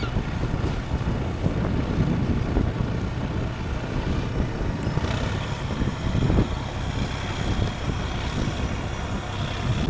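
A steady low engine rumble with wind buffeting the microphone. A thin, high whine joins in about five seconds in and holds.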